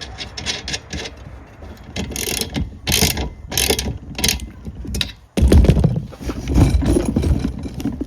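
Ratchet wrench clicking in uneven strokes as the rack's main bolt is tightened, with louder clunking from about five seconds in.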